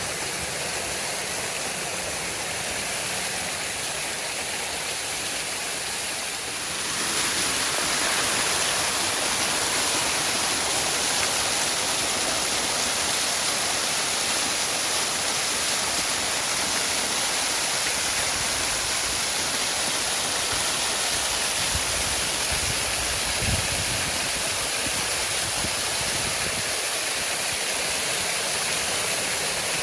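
Waterfall: a steady rush of falling water that gets louder and brighter about seven seconds in.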